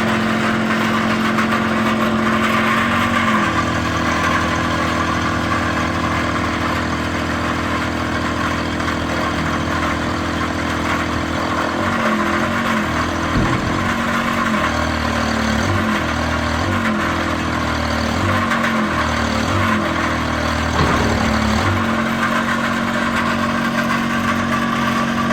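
Kubota pony motor driving the bucket truck's hydraulics, running steadily, then settling to a lower, laboring note about three seconds in as the boom controls load it. From about twelve seconds its pitch repeatedly dips and recovers as the boom functions are worked on and off, and it runs steady again near the end.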